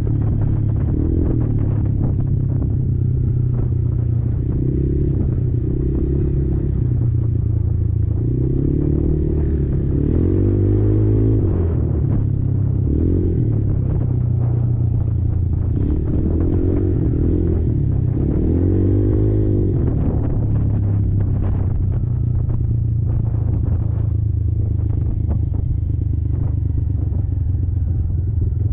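Kymco Maxxer 300 quad's engine running under way, revving up and easing off several times, most plainly around the middle and again about two-thirds of the way in.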